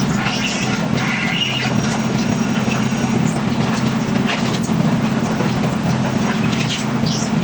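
A heavy machine running with a steady low drone, with occasional short scrapes and clatters over it.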